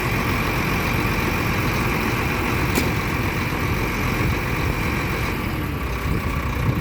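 An engine idling steadily, with one sharp click about three seconds in.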